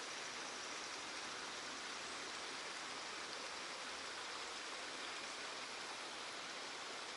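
Steady, even rush of flowing water, like a stream or inflow running into a pond.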